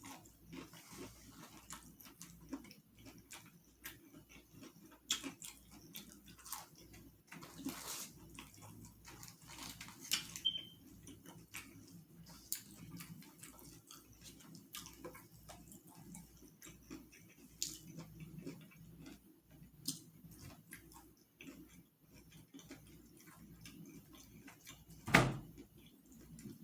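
Close-miked eating: chewing and lip-smacking on fried food, a steady scatter of small wet clicks and crunches. One much louder thump comes near the end.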